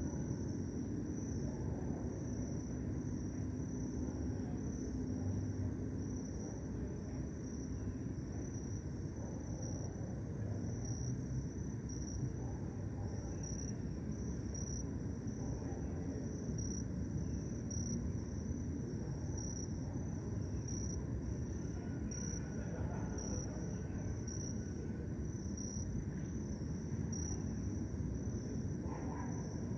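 Crickets chirping steadily in a high-pitched trill that pulses about once a second, over a low, steady background rumble.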